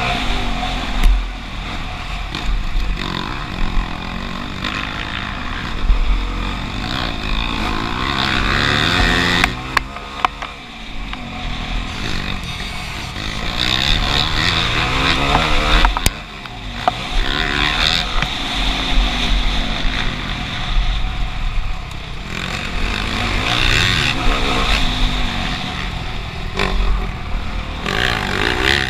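Motocross bike engine revving hard, its pitch rising and falling over and over as the throttle opens and closes, with a couple of sharp knocks, the clearest about sixteen seconds in.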